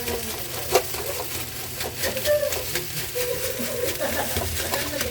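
Fried rice being stirred and tossed in a hot pan with a spatula: sizzling, with irregular clicks and scrapes of the spatula against the pan.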